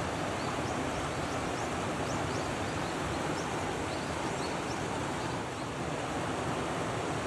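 Steady rush of small waves breaking and water moving, an even wash of noise with no single event standing out.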